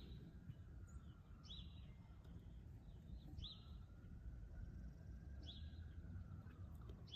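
Quiet background hum with a small bird's short chirp repeating about every two seconds.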